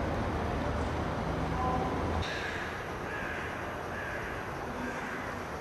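A low steady rumble that cuts off suddenly about two seconds in, then a bird calling: short calls repeated about twice a second.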